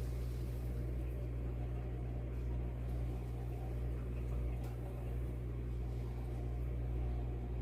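A steady low mechanical hum, like a motor or appliance running, that stops abruptly at the end.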